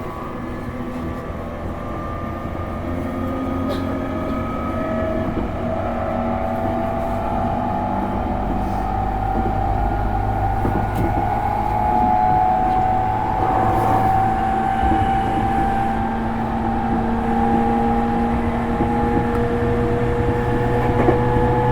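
Interior running sound of a JR East E231-series electric train, heard from inside a motor car: the traction motors' whine with several tones slowly rising in pitch as the train picks up speed, over the steady rumble of wheels on rail.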